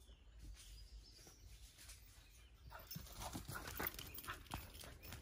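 Footsteps on a hard lane surface at a walking pace, about three a second, starting a little before halfway.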